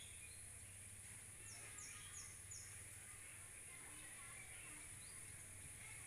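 Faint outdoor ambience: a small bird gives four quick, high, falling chirps about one and a half seconds in, over a steady high insect hiss.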